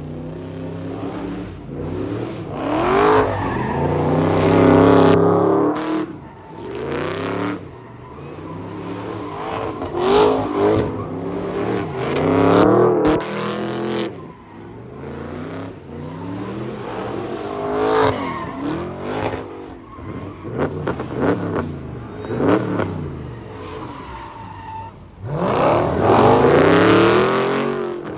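Dodge Challenger's engine revving hard in repeated rising and falling surges while the car spins its rear tyres in smoky donuts. The loudest surges come about three seconds in, around ten to thirteen seconds, and near the end.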